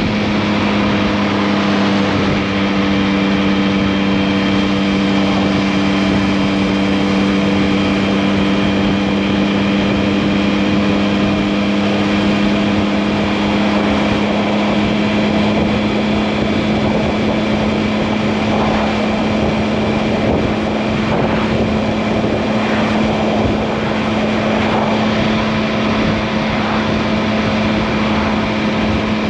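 Yamaha MT-09 (2021, RN69) 889 cc inline three-cylinder engine running under way at a nearly constant engine speed, its pitch holding steady with only slight shifts.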